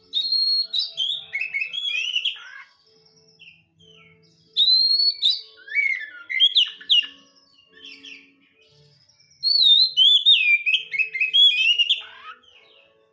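Oriental magpie-robin (kacer) singing: three bouts of loud, varied whistled phrases with sliding notes, each a few seconds long, separated by short pauses.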